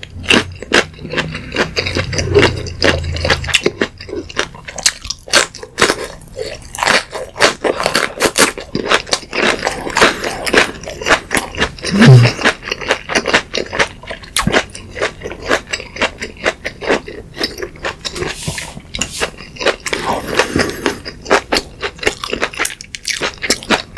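Close-miked chewing of a raw green chili pepper: a dense run of crisp crunches and small wet mouth clicks.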